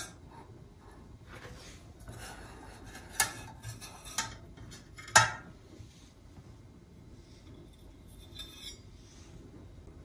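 Household objects being handled and set down: a few sharp clinks, the clearest about three, four and five seconds in, with soft scraping between them and a cluster of light ticks near the end.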